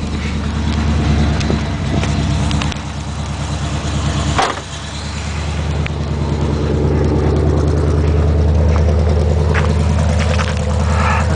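1975 Chevrolet Chevelle's 400 small-block V8 running just after a cold start, heard through its 2.5-inch exhaust. The engine note drops briefly with one sharp knock about four and a half seconds in, then climbs gradually and holds steady.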